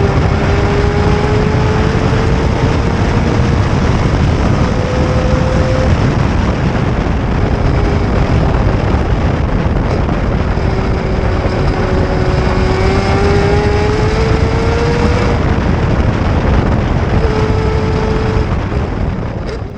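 Four-rotor rotary engine of a Mazda RX-7 on an equal-length header with open exhaust, running hard and loud. Its pitch climbs several times over a few seconds and drops back each time.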